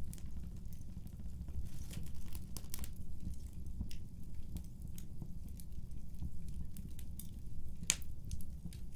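Wood fire in a fireplace crackling: a steady low rush of flame with scattered sharp pops and snaps. The loudest snap comes about eight seconds in.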